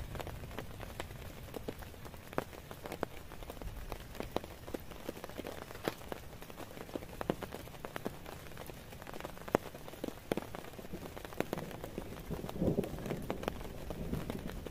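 Light rain: scattered drops tapping irregularly, several a second, over a faint hiss. Soft handling noise comes in near the end.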